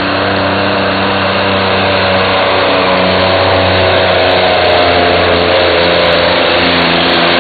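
Semi truck's turbocharged diesel engine running hard at high, nearly steady revs under heavy load while pulling the weight sled.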